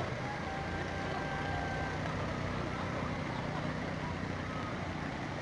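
A boat's motor running steadily with a low hum.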